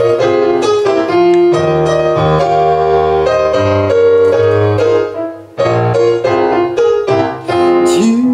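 Instrumental interlude of a Russian folk song, a keyboard instrument playing the melody in held chords with no singing. A voice starts to come in at the very end.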